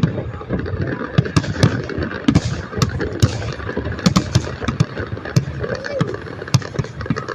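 Fireworks going off in a rapid, irregular series of bangs and crackles, several a second.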